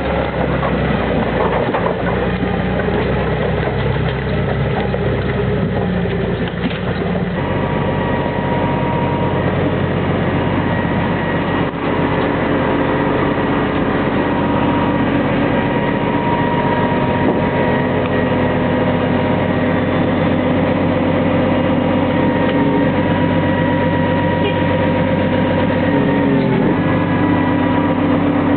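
Valtra T131 forestry tractor's diesel engine running steadily. Its note shifts about seven seconds in and again near the end, as the engine speed or load changes.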